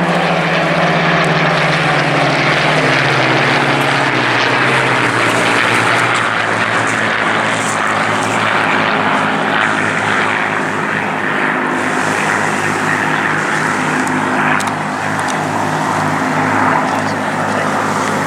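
Supermarine Spitfire's Rolls-Royce Merlin V12 engine passing overhead, its pitch falling over the first few seconds as it goes by, then a steady, pulsing drone as it flies away.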